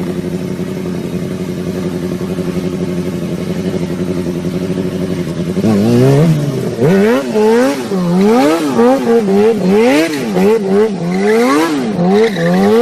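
Motorcycle engine idling steadily, then revved hard over and over from about six seconds in, the pitch rising and falling a little more than once a second.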